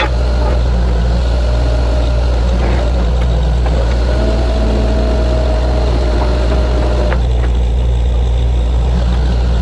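Heavy diesel engine of a truck-mounted borewell drilling rig running steadily with a deep drone. A thin whine rises over it for a few seconds midway.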